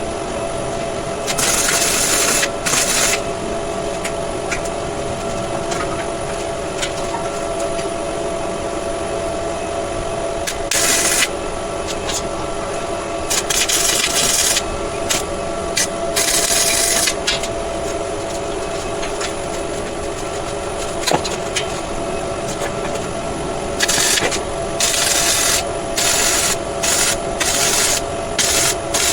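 Electric angle grinder running with a steady whine and grinding steel in rasping passes of a few seconds each, broken into quick short passes near the end.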